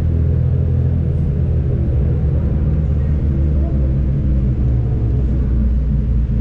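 Turbocharged BMW M50 straight-six in an E36 running at a steady engine speed, a deep, even drone.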